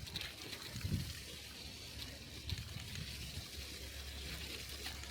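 Bicycle tyres rolling over a snowy street, giving a steady hiss with an uneven low rumble underneath.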